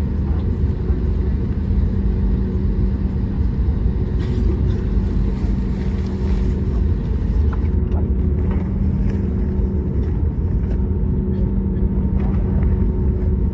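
Cabin noise inside an Airbus A320neo heard from a window seat: a steady low rumble with a constant hum running through it.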